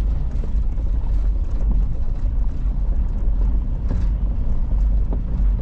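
A Toyota LandCruiser 200 series V8 four-wheel drive being driven along a 4WD track: a steady low rumble with scattered small knocks and rattles.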